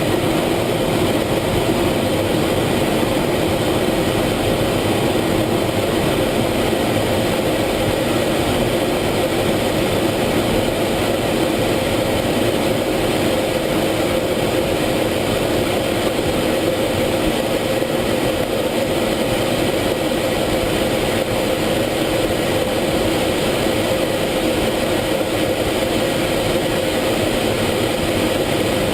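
F-16 fighter jet's engine and airflow heard from inside the cockpit as a steady, unbroken drone with a low hum, unchanging throughout.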